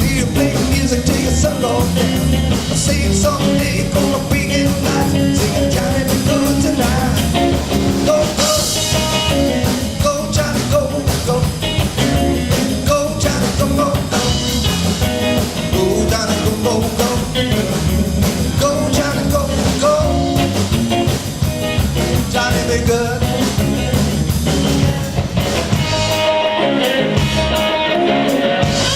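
A live rock band playing a blues-rock number with electric guitar, drums and a singing voice.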